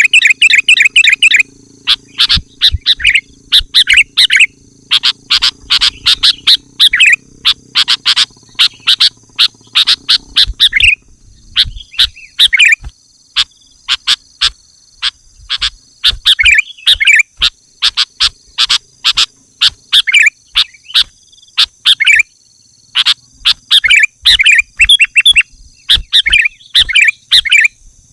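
Sooty-headed bulbul calling in quick bursts of loud chattering notes, again and again, over a steady high whine. A low hum underneath drops out about eleven seconds in.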